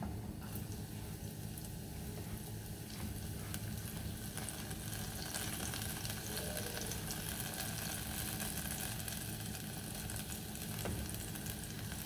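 Minced garlic and shallots sizzling in hot olive oil in a small nonstick saucepan, with a few light taps and scrapes of a plastic spatula as they are stirred. The sizzle grows a little fuller about four seconds in.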